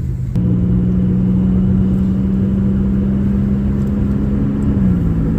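Car engine running, heard from inside the cabin: a loud, steady hum over a low rumble, its pitch dropping slightly near the end.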